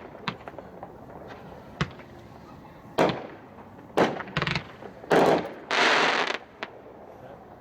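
Two Hot Shot 'Eternity 2 Minute' 63-shot 500-gram fireworks cakes firing together: a string of sharp bangs at irregular spacing, bunched close together around the middle, with a longer noisy burst of about half a second near the end.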